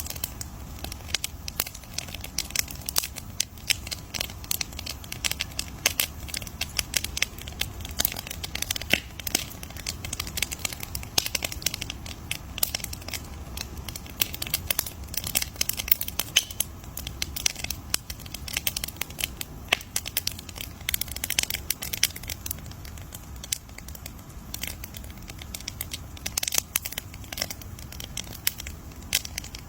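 Campfire crackling: a dense, irregular stream of sharp pops and snaps from burning wood over a low steady rumble of the flames.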